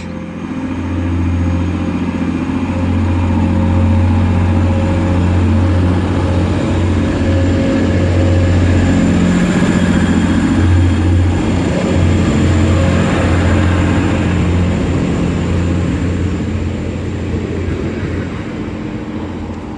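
Class 185 diesel multiple unit pulling away from the platform, its underfloor diesel engines running under power with a steady low drone. The sound builds over the first few seconds, holds, then fades toward the end as the train draws away.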